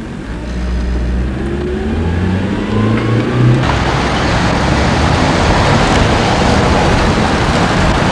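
A vehicle engine accelerating, its pitch climbing steadily for about three and a half seconds, then giving way suddenly to a loud, steady rushing noise.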